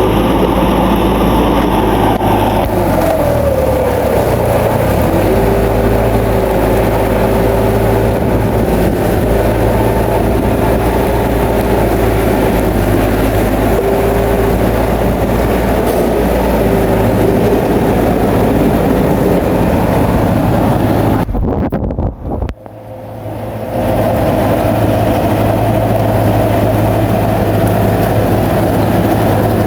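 Bulldozer's diesel engine running steadily under load, with a whining tone that drops in pitch about three seconds in and then holds. The sound cuts out briefly about three-quarters of the way through.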